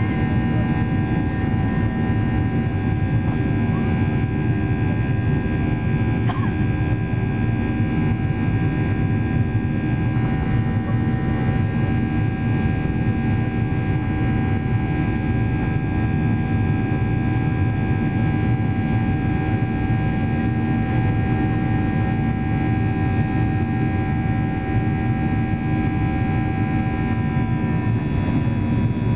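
Jet engine and airflow noise heard inside the cabin of a Boeing 737-800 in flight. It is a loud, even rumble with several steady whining tones from the CFM56-7B turbofans above it.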